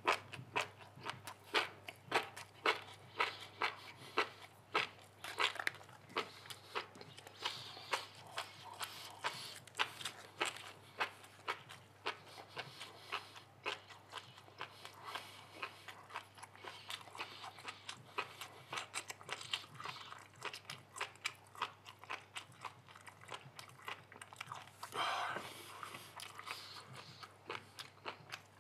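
Close-up chewing of a large mouthful of wakame seaweed salad: a long run of wet mouth clicks, several a second, over a low steady hum. A brief louder noise comes about three seconds before the end.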